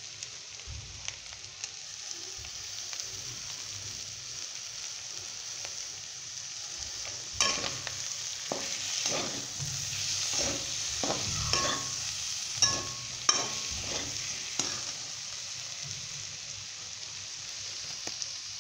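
Boiled potato pieces sizzling in oil in a metal pan while a metal spatula stirs and scrapes them. Through the middle of the stretch there is a run of sharp spatula clicks and scrapes against the pan, some with a brief metallic ring.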